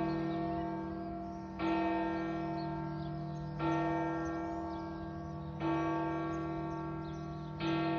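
A church bell tolling slowly, one stroke about every two seconds, four strokes in all, each ringing on and fading into the next over a steady low hum.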